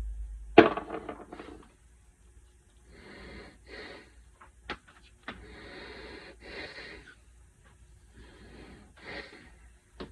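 A sharp clatter about half a second in, then three drawn-out rough rubbing sounds, each lasting one to two seconds.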